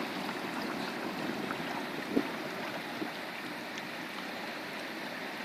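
Steady wash of lake water lapping with some wind, with one light knock about two seconds in.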